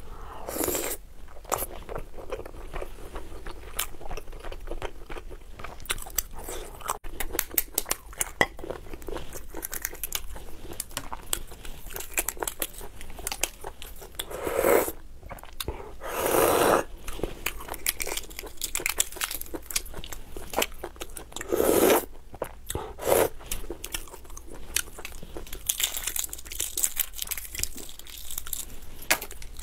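Chewing a whole balut (13-day fertilized egg), with many small mouth clicks and a few louder mouth noises. Near the end comes a crackle of eggshell being peeled from the next egg.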